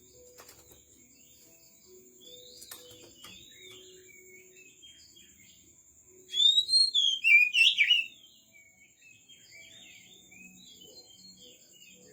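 Bird song: faint scattered chirps, then a loud phrase of sliding whistled notes from about six to eight seconds in, over a steady high-pitched drone.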